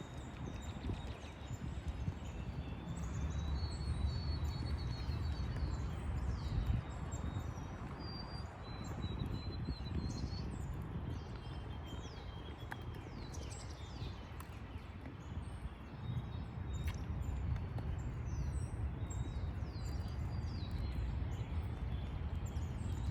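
Small songbirds chirping and whistling on and off throughout, short quick calls over a steady low outdoor rumble.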